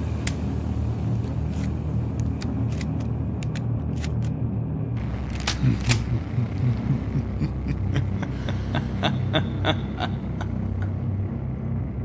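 Car engine running with a steady low rumble, with scattered sharp clicks over it. From about eight seconds in comes a quick run of clicks, about four a second.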